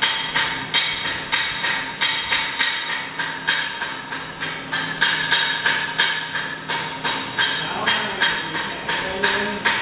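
A hammer striking steel plate in a steady rhythm of about two to three blows a second, each blow leaving a metallic ring.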